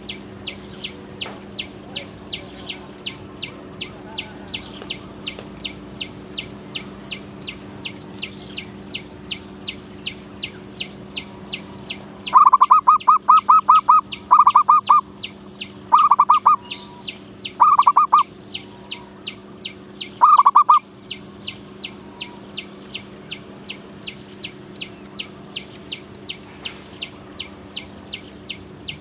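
Zebra dove (merbuk) cooing in five loud phrases of rapid staccato notes in the middle stretch. Under it, a steady high chirp repeats about two or three times a second throughout, over a faint low hum.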